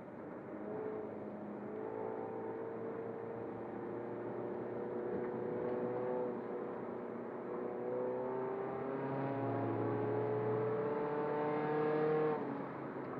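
Turbocharged 2009 Toyota Corolla Altis engine accelerating under load, its revs and loudness climbing steadily. The pitch eases back once midway, as the automatic gearbox shifts up, then climbs again before falling away near the end as the throttle is released.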